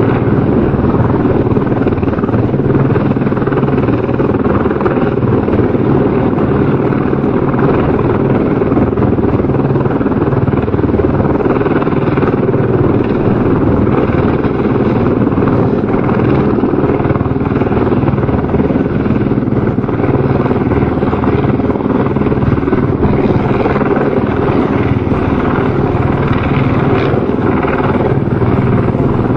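Helicopter rotor and turbine running steadily at a constant level, a dense continuous noise with a fast rotor flutter.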